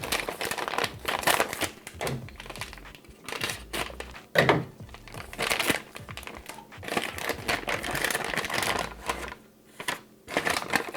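Packaging of a ration bread pouch being torn open and handled, a dense run of crinkling and crackling clicks with a short lull near the end.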